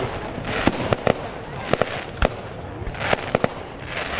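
Aerial fireworks going off: a rapid series of sharp bangs, several a second at times, with a hiss after some of them.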